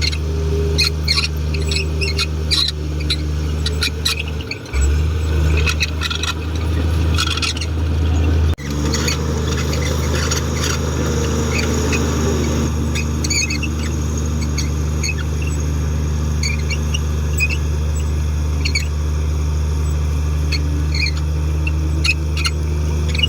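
Komatsu D58 bulldozer's diesel engine running steadily under many short, high metal squeaks and clicks. About five seconds in the engine grows louder for a few seconds, then drops back suddenly.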